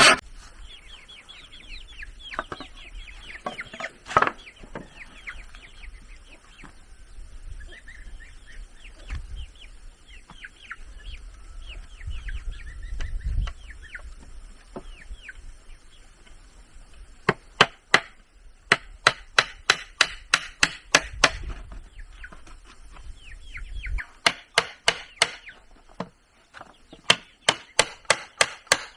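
Chickens clucking and peeping with short falling chirps. A little past halfway, runs of sharp strikes on wood start, about three to four a second, in several bursts.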